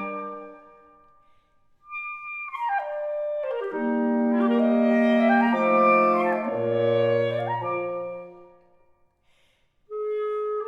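Woodwind quintet of oboe, clarinet, saxophone, bassoon and bass clarinet playing a slow classical passage. A chord fades to a brief silence. A single high note then leads into a falling run and full held chords, which die away to a pause before the next phrase begins near the end.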